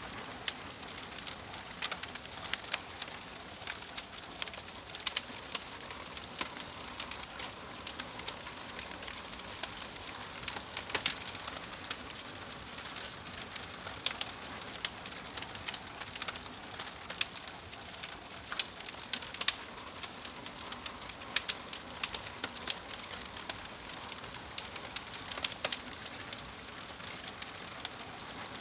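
Fire crackling: irregular sharp pops and snaps over a steady soft hiss.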